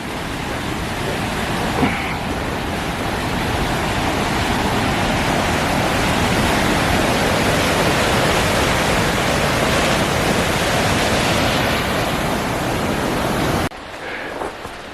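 Waterfall's fast-flowing water, a loud steady rush that builds a little over the first few seconds and cuts off abruptly near the end.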